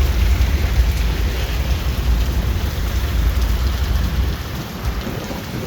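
Heavy rain pouring steadily in a severe thunderstorm, with a deep rumble underneath that fades about four seconds in.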